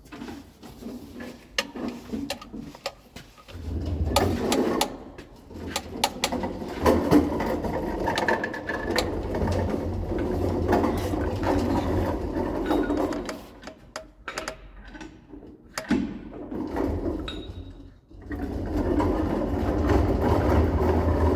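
A machine running in uneven spells with a low rumble, with scattered sharp metallic clicks and knocks throughout; it drops off briefly twice before picking up again near the end.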